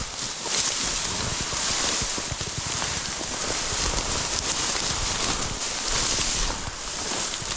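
Wind buffeting the microphone, with a steady rustle and crackle of dry prairie grass being walked through.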